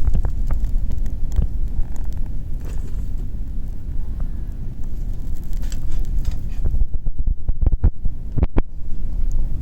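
Fire burning in a fire pit, with scattered sharp crackles over a steady low rumble; the crackles come thicker for a moment near the end.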